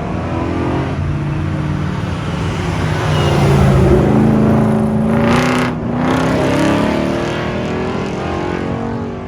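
Cars driving past one after another with their engines running, the engine pitch rising and falling as they pass, loudest about four seconds in. A brief rush of noise comes about five and a half seconds in.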